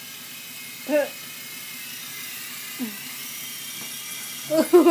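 Toy helicopter's small electric motor whining steadily. A brief vocal sound comes about a second in, and louder vocal sounds start near the end.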